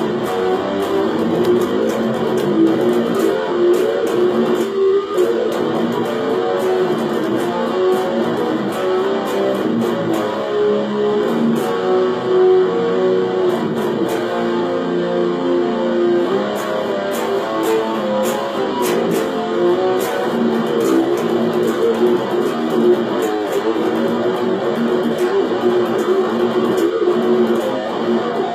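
Eight-string BC Rich Lucky 8 electric guitar played through a Korg AX1500G multi-effects processor and a mini amp, with notes following one another without a break.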